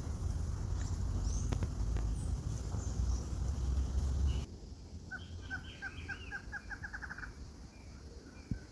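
Wind rumble on the microphone with a few scattered bird calls, then, after a cut, a bird giving a rapid series of clucking notes that speeds up over about two seconds.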